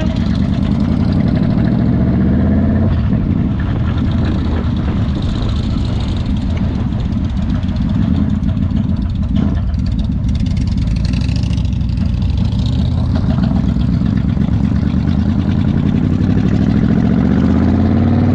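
Motorcycle engine running steadily, its pitch climbing as it revs up near the end.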